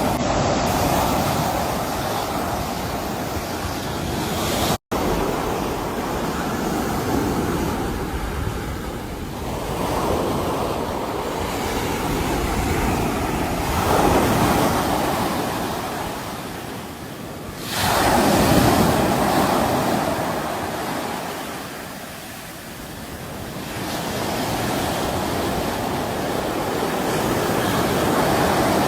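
Sea waves washing onto a shore, the surf swelling and falling back every few seconds, with a heavier wave breaking sharply about two-thirds of the way through. The sound cuts out for an instant near the start.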